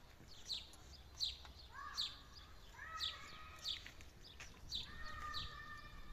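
Birds chirping over and over, short falling chirps about once or twice a second. A few longer, steady squeaky tones sound in between, about two, three and five seconds in.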